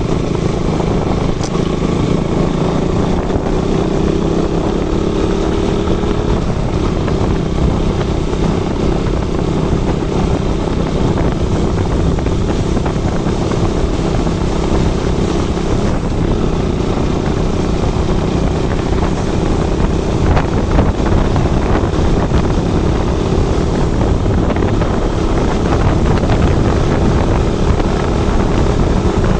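KTM RC 200 motorcycle's single-cylinder engine running steadily under way, over a heavy wind rumble on the microphone.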